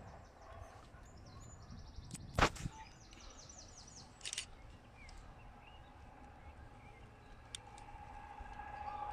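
Quiet railway platform background: two sharp clicks, the first the loudest, a short rapid rattle, and near the end a steady hum and low rumble building up.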